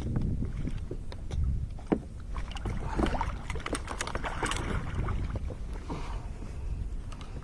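Kayak on the sea: water splashing and sloshing with a run of sharp knocks and clicks against the hull, busiest in the middle, over a steady low rumble of wind and water.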